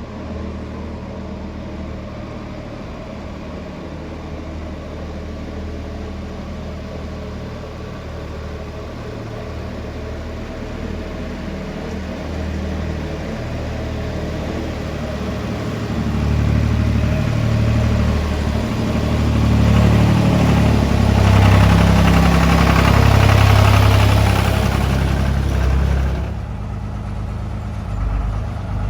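Tractor engine running steadily at low revs. It revs up and grows louder from about halfway through, stays at its loudest for several seconds, then drops back suddenly near the end.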